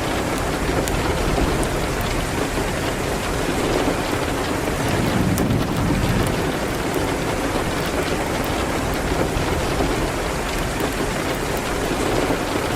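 Steady rain hitting a window, mixed with a fireplace giving a few sharp crackles.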